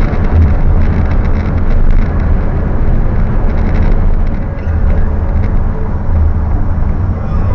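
Toyota Sienna minivan driving: a steady, loud rumble of road and engine noise.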